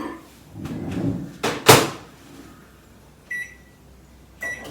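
A dish slides into a microwave oven and the door shuts with a sharp knock. A few seconds later come two short keypad beeps as the timer is set.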